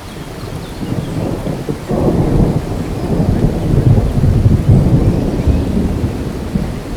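Rain falling with a long rolling rumble of thunder that builds about two seconds in, is loudest mid-way, then eases slightly.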